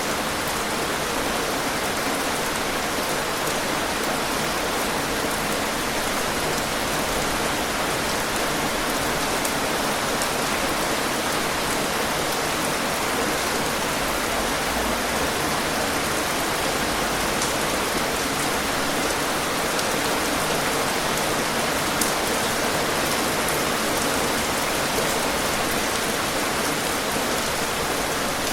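Steady rain falling on a surface, an even dense hiss of drops with a few sharper individual drop ticks.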